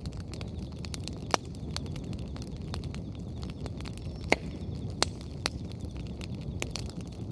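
Wood bonfire burning with a steady low rush, crackling throughout, with a few sharp, louder pops from the burning firewood.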